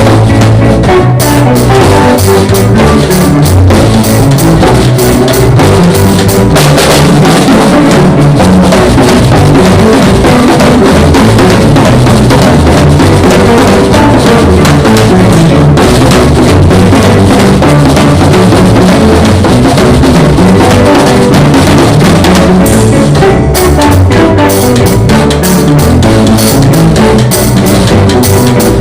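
Live band jamming with a full drum kit, kick drum, snare and rimshots, over bass and other instruments, recorded very loud and distorted.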